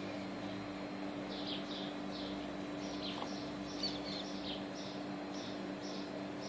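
A small bird chirping in quick, short, high notes, several a second and irregularly spaced, over a steady low hum.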